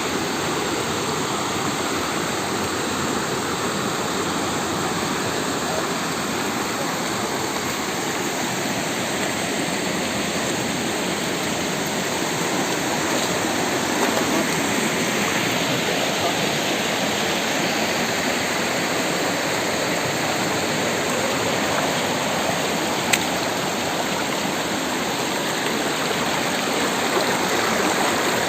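Rushing water of a mountain stream or waterfall, a steady even rush throughout, with a single brief click about three-quarters of the way through.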